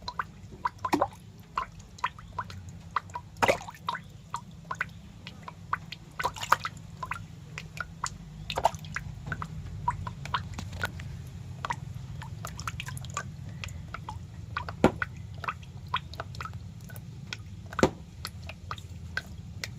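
Irregular wet clicks and small squelching drips, a few to several a second and uneven in loudness, over a steady low hum.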